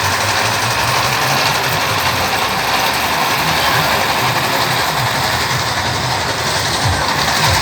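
A motor or engine running steadily under a loud, even din with a low uneven rumble.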